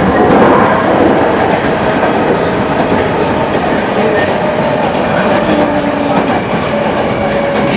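Running noise inside a Hankyu 7000 series electric train (renewed set 7027F, Toshiba IGBT-VVVF inverter) under way at speed: a steady rumble of wheels on rail with clickety-clack and faint steady tones.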